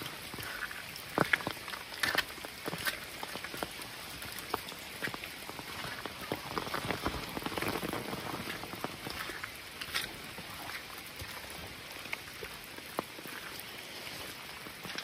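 Water pattering and dripping over a steady hiss, with scattered sharp taps at irregular intervals.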